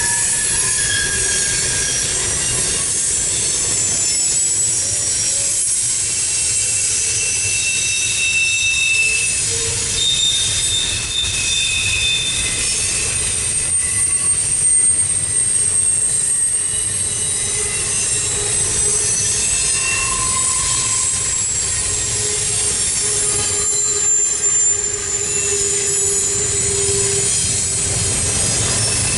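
Double-stack intermodal well cars rolling past at steady speed, with steel wheels rumbling on the rail joints and high-pitched wheel squeals coming and going. A lower squealing tone is held for several seconds toward the end.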